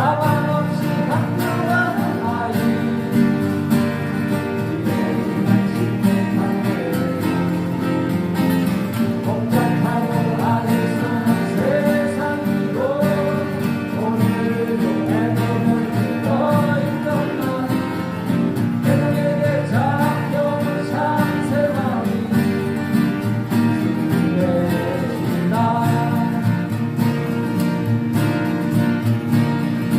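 Live acoustic guitar band music: several acoustic guitars strumming and picking a song, with a melody line carried over them.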